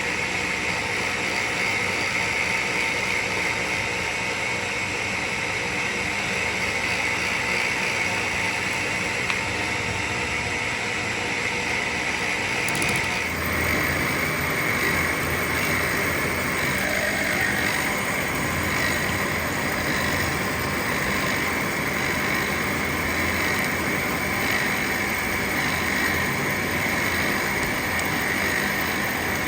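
Steady, loud machine noise that never lets up, changing abruptly in character about 13 seconds in.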